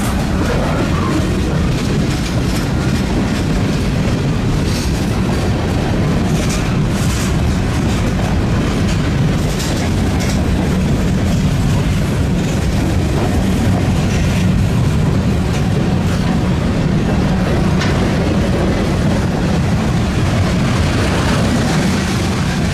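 Train cars rolling past at close range: a loud, steady low noise from the wheels on the rails, with scattered clicks as the wheels cross rail joints.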